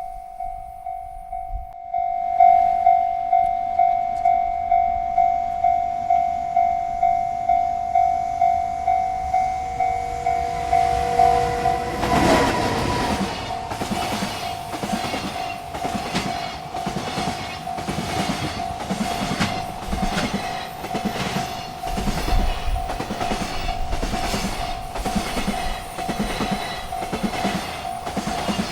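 Railroad crossing bell ringing about twice a second. About twelve seconds in, a freight train arrives and rolls through the crossing under the bell: a loud rumble with a steady clickety-clack of wheels over rail joints.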